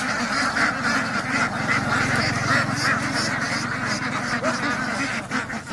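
A flock of domestic ducks quacking without pause, many calls overlapping into a continuous din.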